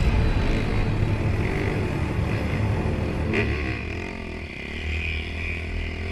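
Motocross bike engine running, its pitch dipping and rising a little about halfway through.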